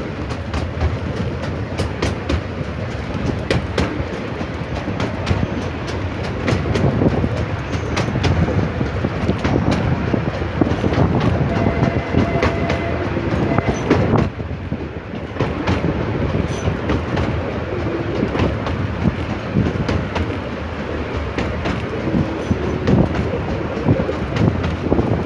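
Miniature railway train running, heard from on board a carriage: a steady rumble of the wheels with frequent clicks as they pass over the rail joints.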